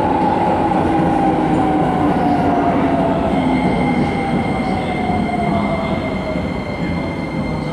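Keisei 3000-series electric train braking into a station, heard from inside the car: under the steady running rumble its motor whine falls smoothly in pitch as the train slows. About three seconds in, a steady high-pitched squeal joins in, typical of brakes or wheels at low speed.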